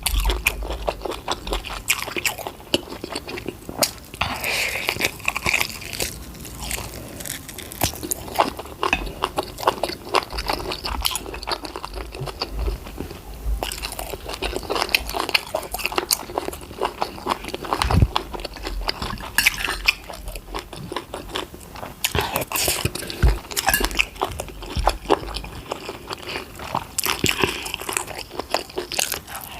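Close-miked chewing and biting of a meal of stir-fried rice, fried goat meat, prawns and fried plantain: a dense, irregular run of small mouth clicks and smacks, with a few heavier bites.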